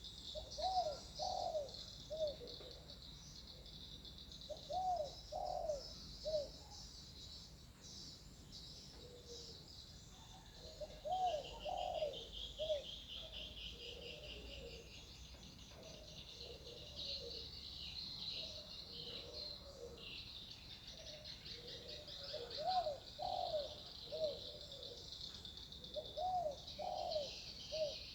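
Spotted dove cooing its repeated three- to four-note phrase, about six times, each note a short rising-and-falling coo. A steady high-pitched chirring runs underneath.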